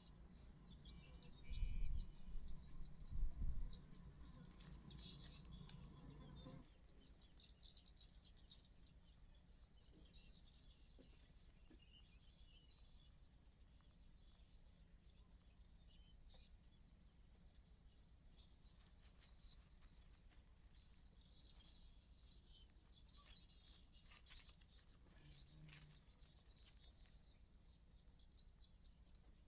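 Bird chirping: short, high chirps repeated about once a second, over a faint high hiss. A brief low rumble, the loudest thing here, comes about two seconds in.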